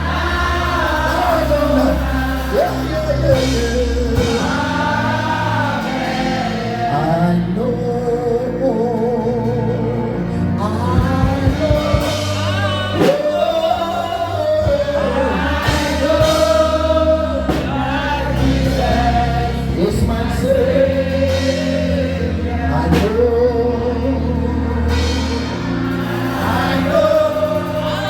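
Gospel song with a lead singer and backing choir over a band with bass and a steady beat.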